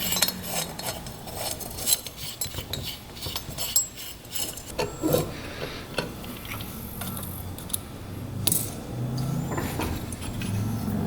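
Metal tools clicking, clinking and scraping on a small engine's cylinder head while a valve is taken out, many short irregular clicks with rubbing and scraping between them.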